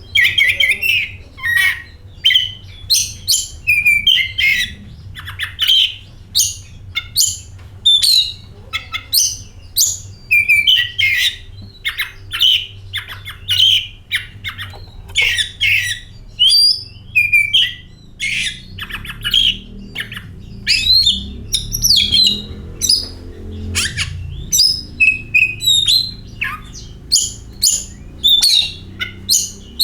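Oriental magpie-robin (kacer) singing continuously: a rapid, varied run of short whistled and chirping notes with brief gaps, over a faint low hum.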